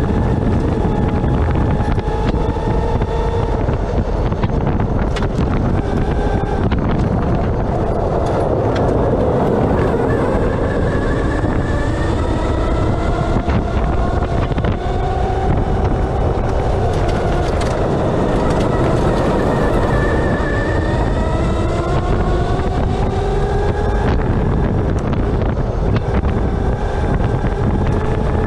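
Electric Baja off-road buggy driving hard. The motor's whine rises and falls with speed, over a steady rumble of wind and tyres and scattered knocks from the chassis.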